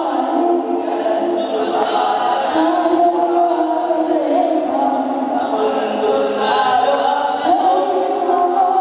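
Unaccompanied voices singing, with long held notes that slide slowly from one pitch to the next and no instruments.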